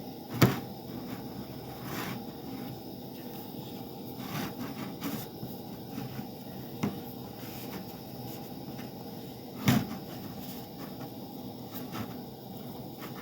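Scattered knocks and clicks of hands handling things while a burrito is put together, the loudest about half a second in and again near ten seconds, over a steady low background hum.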